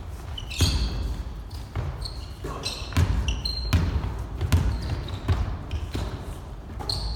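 Basketball play on an indoor court: a ball bouncing in irregular thuds, about one a second, mixed with short high squeaks of sneakers on the floor.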